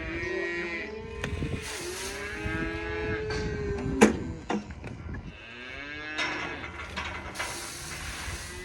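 Steers mooing, several long calls overlapping one another as they wait to be fed grain. A single sharp knock sounds about four seconds in.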